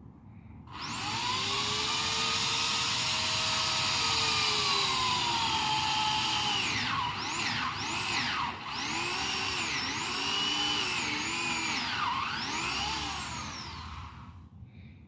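Chainsaw making a felling cut in an aspen trunk. It runs at a steady high pitch at first; from about halfway its pitch repeatedly dips and rises as the chain bites into the wood. It stops shortly before the end.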